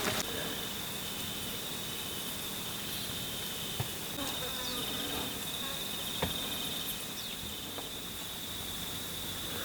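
Insects trilling outdoors: a continuous, steady high-pitched note, with a couple of faint clicks partway through.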